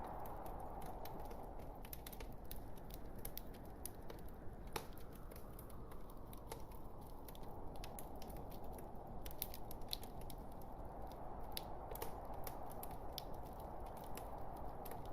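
Log fire burning in a fireplace: a steady low rush of flames with many small, irregular pops and crackles from the burning wood.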